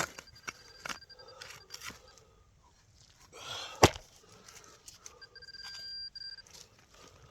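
Hand digging in soil with scrapes and small knocks, and one sharp loud knock about four seconds in. Twice a metal detector's electronic tone sounds: first as a quick pulsing beep, then held steady for about a second near the end, as it sits on a buried metal target.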